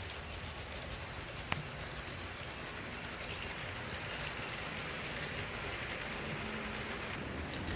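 HO scale model freight train running along the layout track: a steady rolling hiss with a quick run of high squeaks through the middle and a single click about one and a half seconds in.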